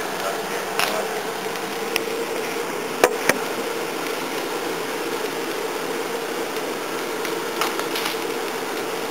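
Blower fan forcing air into a wood fire: a steady rushing hum, with a few sharp cracks and pops from the burning wood, the loudest two close together about three seconds in.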